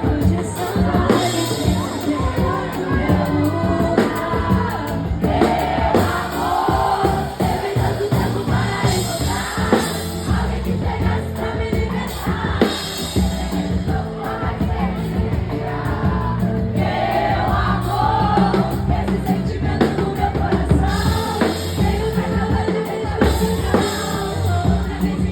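Live pagode music: a singing voice over a drum kit and percussion, with a steady beat throughout.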